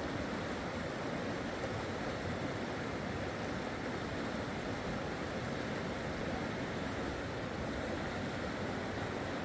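Steady rushing of fast-flowing river water, an even noise with no breaks.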